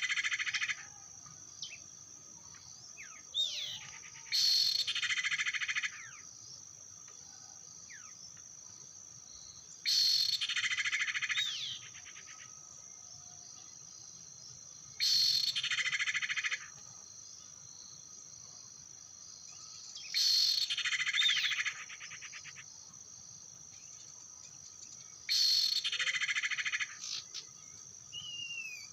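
Lure recording of cipoh (common iora) calls played on a loop: about 1.5 s of rapid chirping repeated roughly every five seconds, identical each time. It runs over a steady high insect drone, with a few short bird calls between the repeats.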